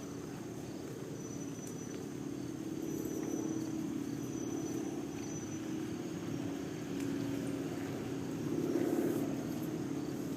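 Several motorcycle engines running at low speed, a steady drone that swells a little near the end.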